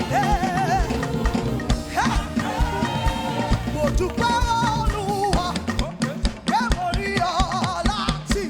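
Upbeat praise band music with a steady drum beat under a wavering, vibrato-laden melody line.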